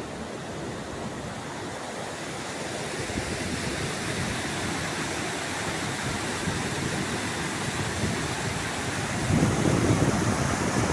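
Rushing river water, a steady hiss that grows gradually louder. Near the end, wind buffets the microphone in low, gusty rumbles.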